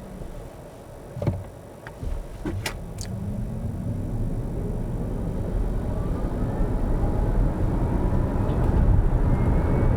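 Smart #5 BRABUS electric car accelerating hard from a standstill in Eco mode, heard from inside the cabin: a few sharp clicks in the first three seconds, then a faint electric-motor whine rising in pitch over road and tyre noise that grows steadily louder with speed.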